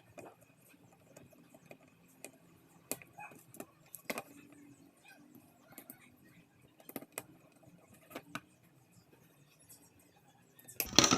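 Scattered light clicks and taps of small parts being handled and fitted, coming irregularly one or two a second.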